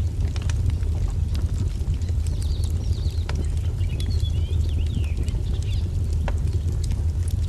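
Wood fire crackling with frequent sharp pops over a steady low rumble. Small birds chirp in short rising and falling calls from about two seconds in until past the middle.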